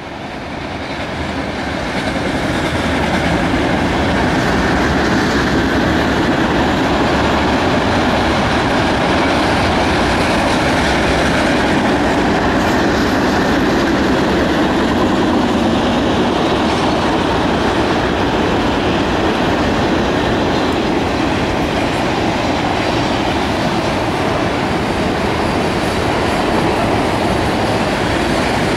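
Intermodal freight train cars rolling past at speed: a steady rumble of wheels on rail that builds over the first few seconds and then holds.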